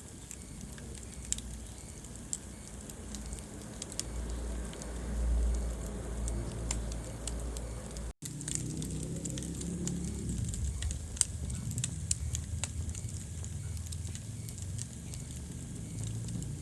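Wood fire crackling in a fireplace: scattered sharp pops and snaps over a steady low rumble of burning. The sound cuts out for an instant about eight seconds in.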